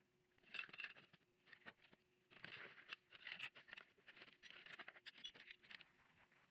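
Faint, irregular clicks, scrapes and rustles of small hard objects being handled, with a faint steady hum in the background.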